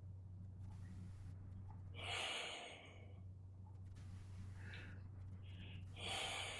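A person breathing out audibly twice, about four seconds apart, over a steady low electrical hum.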